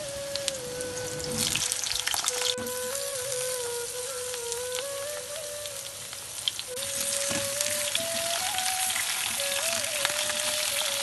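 Pointed gourd pieces sizzling as they fry in hot mustard oil, a dense crackling hiss that grows louder about seven seconds in. A simple background music melody plays over it.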